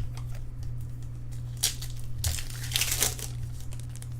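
Foil trading-card pack wrapper crinkling and rustling as it is handled, loudest briefly about a second and a half in and again for about a second near the middle, over a steady low hum.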